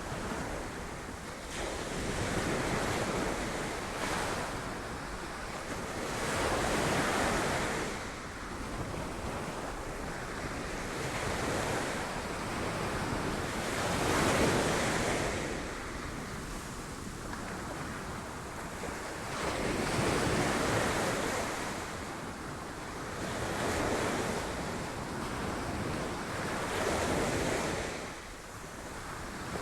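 Sea waves breaking against rocks, surging in and washing back in swells every few seconds over a steady roar of surf, with wind buffeting the microphone.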